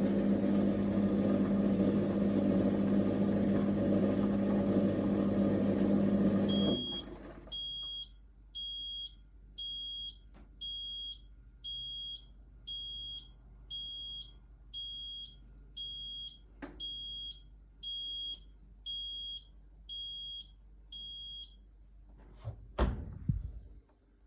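Fisher & Paykel MW059NZ washing machine running with a steady motor hum that cuts off suddenly about a quarter of the way in. About fifteen short high beeps follow, roughly one a second, signalling the end of the wash cycle. A sharp knock or click comes near the end.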